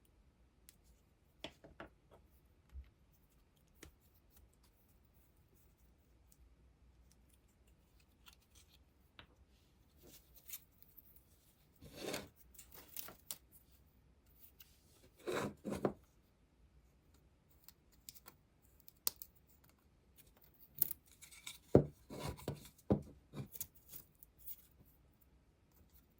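Hand work on small parts: scattered clicks and several short scraping, rubbing strokes, with a denser run of scrapes and knocks about two-thirds of the way through.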